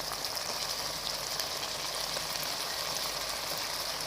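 Chicken, onion and peas frying in hot oil in a kadai: a steady sizzle.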